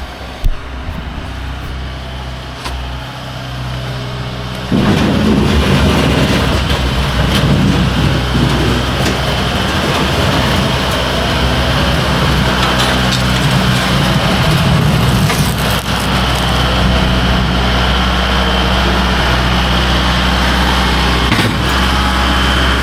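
Kubota loader tractor's diesel engine idling, then throttled up about five seconds in and running steadily at high revs while the loader works, with a few short knocks.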